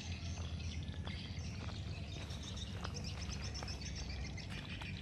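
Swamp forest ambience: many birds chirping and twittering together over a steady low rumble, with scattered light clicks and snaps.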